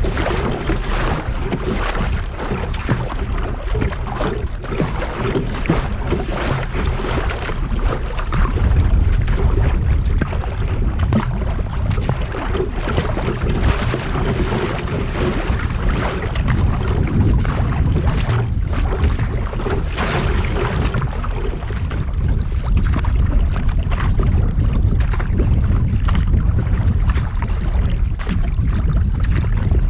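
Strong wind buffeting the microphone in a steady low rumble, with many small splashes and slaps of water against a kayak.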